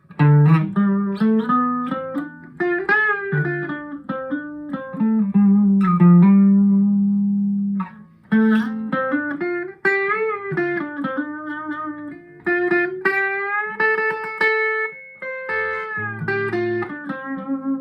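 Squier Telecaster electric guitar played through a Vox AV15 valve modelling amp on its crunch channel, with mild overdrive: a lead line of single notes and double-stops with string bends and vibrato, including a long held note around the middle, briefly breaking off about eight seconds in.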